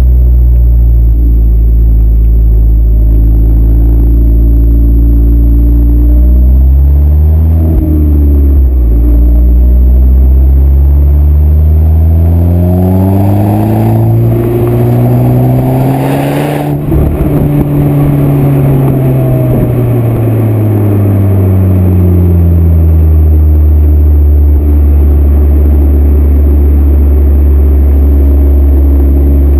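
Exhaust of a stage 2 Seat Leon Cupra R, its 2.0-litre turbocharged four-cylinder breathing through a downpipe and high-flow sports cat. It idles steadily, then the revs climb smoothly for about five seconds, break off with a short sharp noise at the top, and sink slowly back to an even idle.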